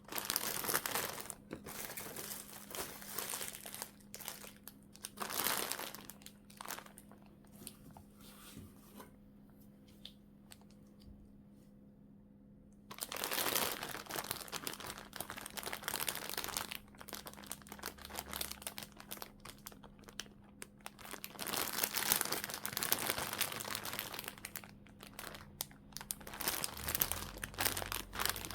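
Plastic packaging crinkling and rustling as it is handled and unwrapped, in clusters of crackles with occasional tearing. It goes quiet for several seconds partway through, then the crinkling resumes.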